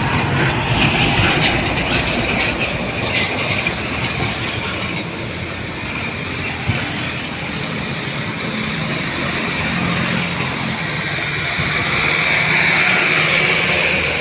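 Road traffic noise: vehicle engines and tyres running steadily, swelling slightly about twelve seconds in.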